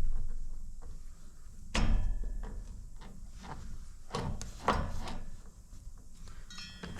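Metal parts clunking and knocking as the front axle, spacers and washers are worked into a motorcycle front wheel: a few separate knocks, the loudest about two seconds in, with lighter clicks between.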